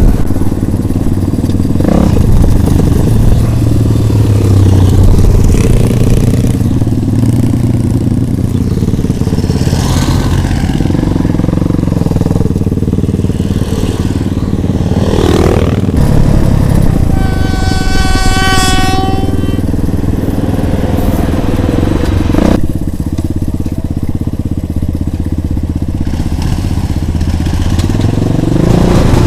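Motorcycle engines running under way, steady and loud, with a steady high tone like a horn lasting about two seconds just past the middle.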